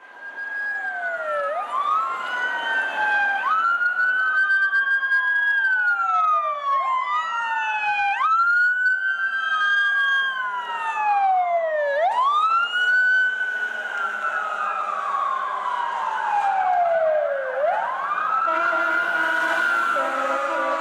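Sirens of fire department rescue ambulances and a fire engine on an emergency response: at least two wail sirens rise and fall out of step with each other, each sweep lasting a few seconds. A steady blaring horn-like tone joins near the end.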